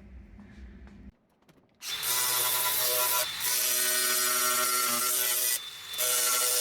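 Hand-held power tool grinding steel: a loud, steady hiss with a held tone that starts about two seconds in after a short near-silent gap, easing off briefly twice.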